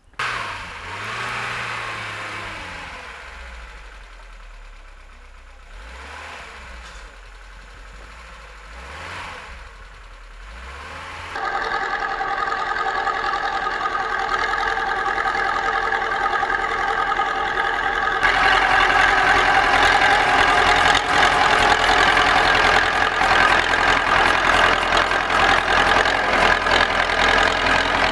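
Motor vehicle engine running, its pitch rising and falling for the first ten seconds or so, then steady and louder from about eleven seconds in, with another step up in loudness near eighteen seconds.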